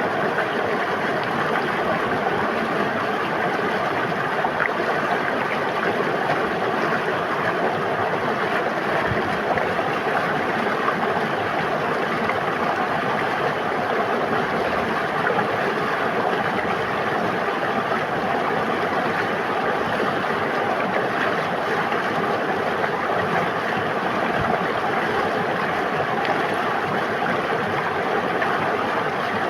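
River water flowing and babbling, a steady even rush.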